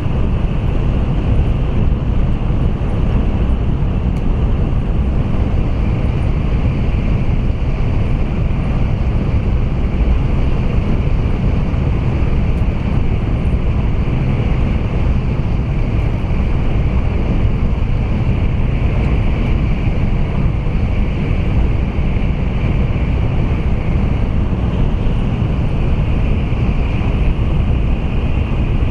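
Running noise of an N700A Shinkansen heard inside the Green Car cabin in a tunnel: a steady, loud rumble with a hiss above it that does not change.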